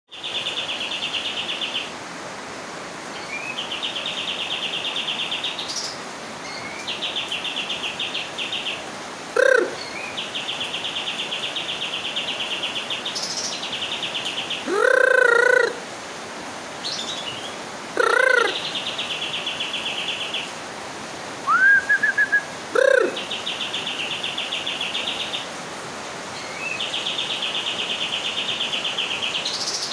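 A bird giving a rapid, even, machine-gun-like rattle, repeated in bursts of about two seconds with short pauses between. Between the rattles come a few louder, lower calls and one short rising whistle.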